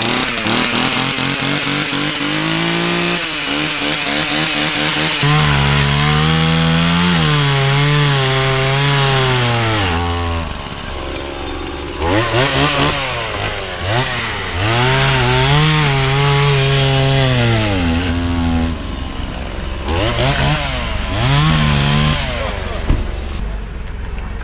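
Chainsaw cutting through a log, its engine revving high and then dragging down in pitch as the chain bites, over and over. It eases off briefly around ten and again around nineteen seconds in.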